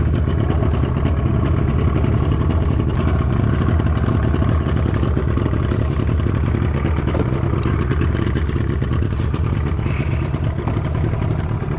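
Boat outboard motor running steadily, with a fast, even engine beat.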